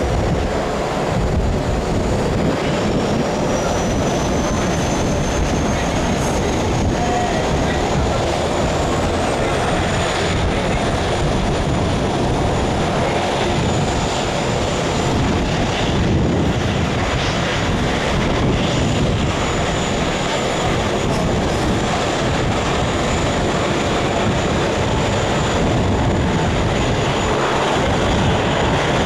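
Jet engines of an Airbus A330-900 airliner running loud and steady, with a thin high whine that rises in pitch twice in the first half.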